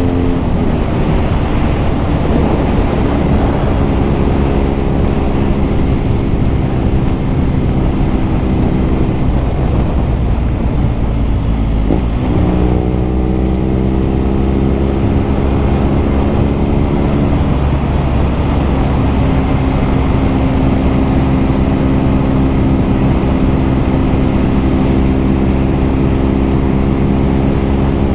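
BMW R nineT's air/oil-cooled boxer twin running under way, its exhaust note the main sound. The pitch drops about half a second in, again around ten seconds and near eighteen seconds, and jumps up sharply around twelve seconds, with steady stretches in between as the rider changes gears and speed.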